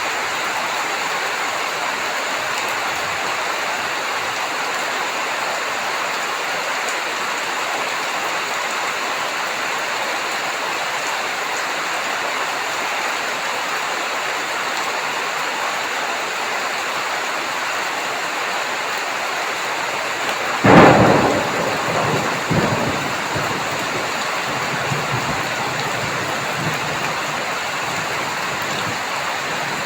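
Steady heavy rain hissing, with one sharp thunderclap about two-thirds of the way in that rumbles away over a few seconds.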